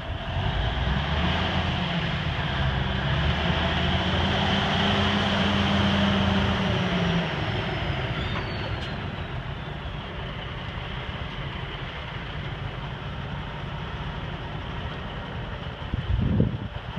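1987 Freightliner dump truck's diesel engine running, held at a higher steady speed for several seconds, then dropping back to a lower, rougher running sound about seven seconds in.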